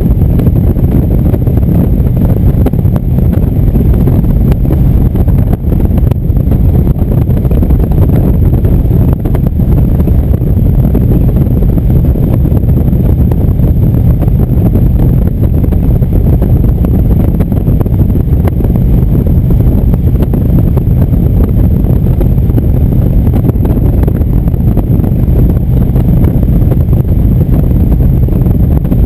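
Indian motorcycle's V-twin engine running at a steady cruise, with wind rushing over the microphone. The engine hum and wind stay constant, with no change in speed.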